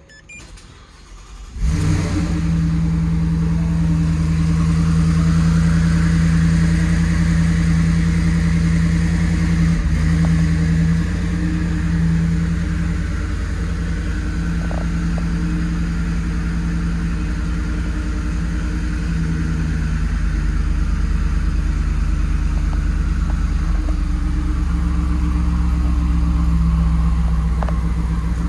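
2023 Ford F-150's twin-turbocharged EcoBoost V6 starting up about two seconds in, then idling steadily, the idle easing slightly lower about ten seconds later.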